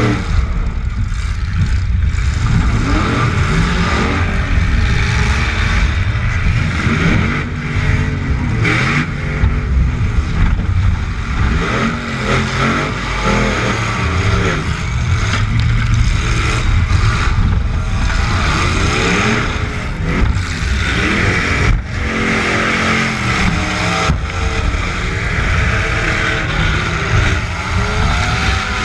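Demolition derby truck engines revving hard up and down during the heat, with several sudden bangs.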